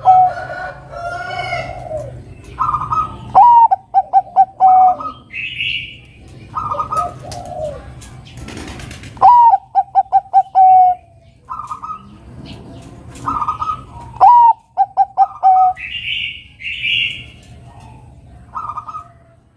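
Zebra dove (perkutut, Bangkok type) singing its cooing song: a higher opening note followed by a quick run of short staccato coos, repeated about every five seconds. Other shorter, higher bird calls fall between the phrases.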